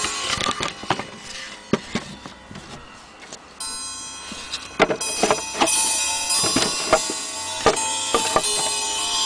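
Westminster-chime wall clock's chime rods ringing and fading, with a fresh ring starting about three and a half seconds in. Sharp irregular clicks and knocks run through it, most of them in the second half.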